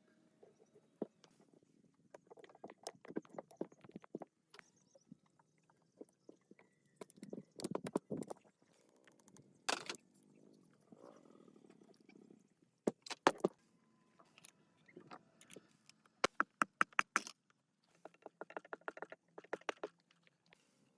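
Hand work on machine parts: irregular knocks, clicks and scrapes, with a quick run of sharp taps about sixteen seconds in.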